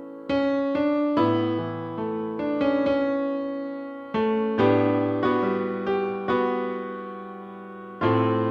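Background music: slow piano, chords and single notes struck and left to fade.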